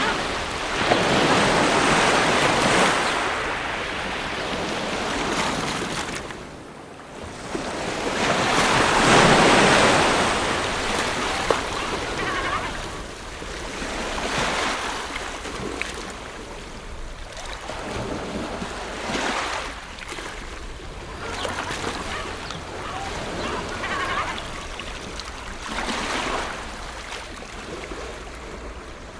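Ocean waves surging and washing back in slow swells over a steady low rumble of surf. Two big swells come a couple of seconds in and again about nine seconds in, then smaller ones every few seconds.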